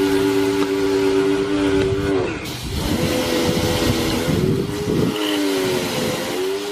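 A machine's motor running with a steady hum. It sags in pitch and turns rough about two seconds in and again about five seconds in, then settles back.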